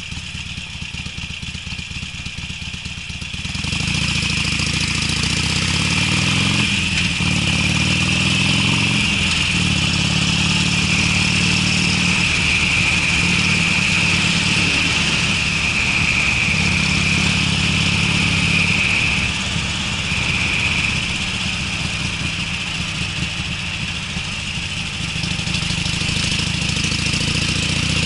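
Harley-Davidson Sportster V-twin with Screamin' Eagle mufflers, running with a lumpy idle, then pulling away about three seconds in and accelerating, its pitch rising and dropping through several gear changes. Wind noise hisses over the exhaust once it is moving.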